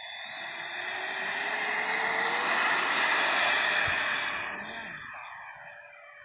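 Jet engine of a model Yak-130 jet making a pass: a high whine and rushing noise that grows louder to a peak about four seconds in, then fades as it goes by.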